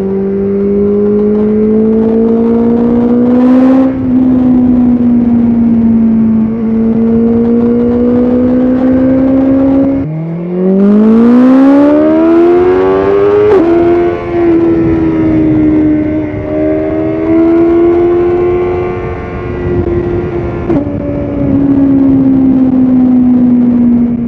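BMW S1000RR inline-four engine under way, its pitch climbing steadily as the bike accelerates through the gears, with brief breaks at quick gear changes. About ten seconds in the revs drop sharply, then climb quickly. The bike then holds a steadier speed, and the pitch eases off near the end.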